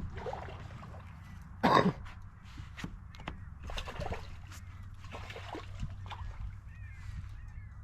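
Water splashing and sloshing in short bursts, with one loud splash about two seconds in.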